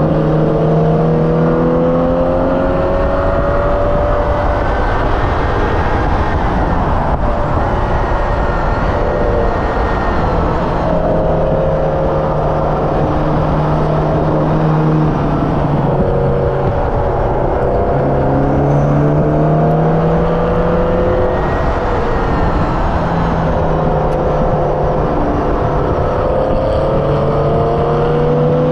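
Hyundai Elantra N's turbocharged 2.0-litre four-cylinder being driven hard on a race track, its pitch climbing through the revs again and again and falling back at shifts and lifts, over constant wind and tyre noise.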